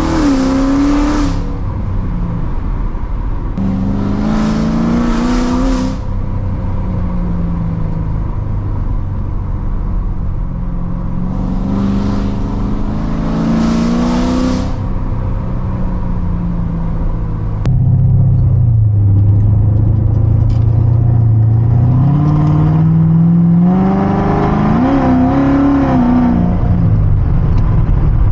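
Straight-piped, supercharged 6.2-litre V8 of a C7 Corvette Z06 with long-tube headers and an X-pipe, under way. It pulls hard three times, the note climbing through the revs each time and then dropping off. Between the pulls it cruises with a low, steady exhaust drone.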